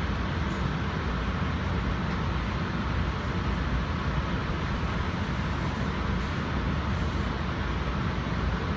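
Steady ride noise inside a commuter rail coach under way: a continuous low rumble of wheels on rail with an even hiss over it, no separate rail-joint clicks.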